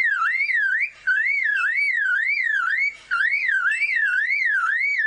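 Superb lyrebird imitating a car alarm: a loud electronic-sounding whistle sweeping up and down about three times a second, in phrases with short breaks about one second in and near three seconds.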